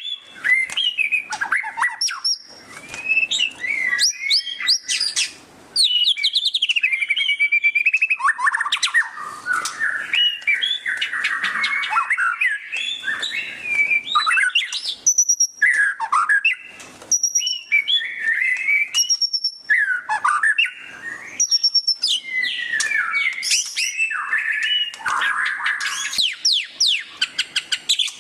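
White-rumped shama (murai batu) singing a loud, continuous, varied song in the ngeriwik style: clear whistled phrases that glide up and down, broken by runs of fast, sharp chattering notes.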